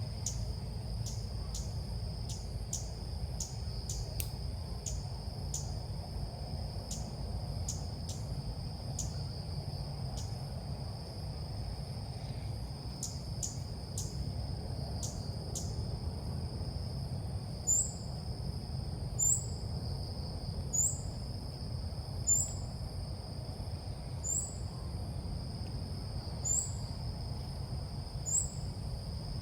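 Ốc mít bird calls used as a trapping lure: sharp high ticks in the first half, then from about halfway a short high chirp repeated about every one and a half seconds. A steady high insect drone, like cicadas or crickets, runs beneath.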